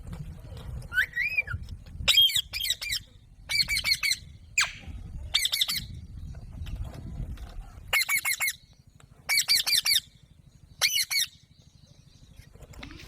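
Alexandrine parakeet calling: short bouts of harsh, rapidly pulsed squawks, repeated roughly every second with a pause in the middle, and one arched call rising and falling near the start.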